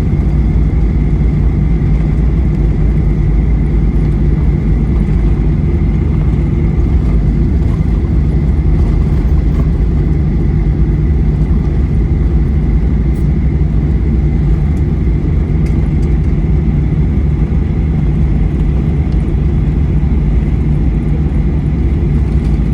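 Steady cabin noise inside a Boeing 737-800 with CFM56-7B engines: a loud, even low rumble with a faint steady whine above it.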